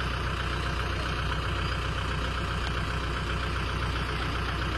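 Kubota L5018 tractor's diesel engine running steadily at a constant speed.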